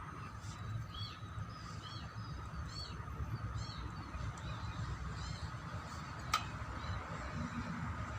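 A small bird chirping over and over, short arched chirps about twice a second, over a low background rumble. A single sharp click sounds a little after six seconds in.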